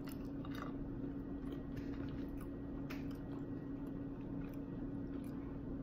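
A person chewing a mouthful of pizza, with soft, scattered mouth clicks a few times over the stretch. A steady low background hum runs underneath.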